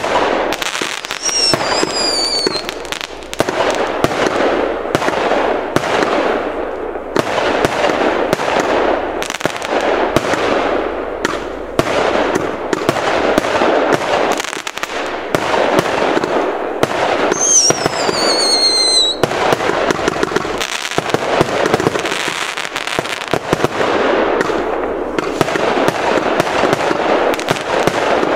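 Nova Fireworks 'Gladiator' firework going off in a continuous barrage of rapid shots and bursts with crackle. A few whistles that fall in pitch cut through near the start and again past the midpoint.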